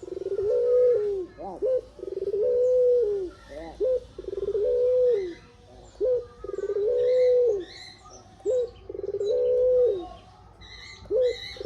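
Puter pelung (domestic ringneck dove) cooing in its song: each phrase is a short rising note and then a long, level coo about a second long, repeated about every two seconds, five times over.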